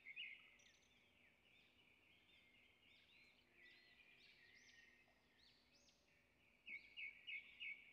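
Near silence, with faint high bird chirps repeating in the background, a little clearer near the end.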